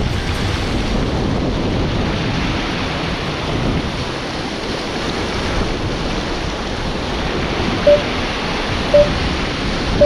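Sea surf washing against the shore with wind buffeting the microphone, a steady rushing noise. Three short beeps about a second apart near the end.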